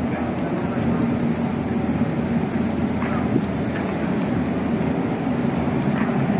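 Steady mechanical running noise with a low hum and a few faint clicks.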